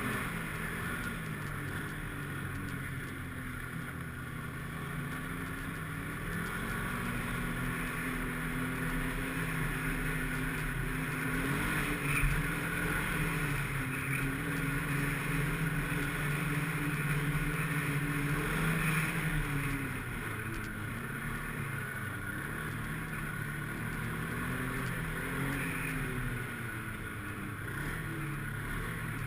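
Snowmobile engine running under way, its pitch climbing as the throttle opens about seven seconds in and holding high until it drops back near the twenty-second mark, then rising and falling briefly again near the end. A single sharp knock about twelve seconds in.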